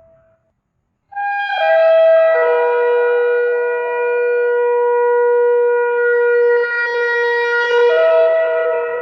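Shofar blown in one long, loud, sustained blast that starts about a second in after a moment of silence. Two or three steady pitches sound together, shifting slightly near the start and again near the end.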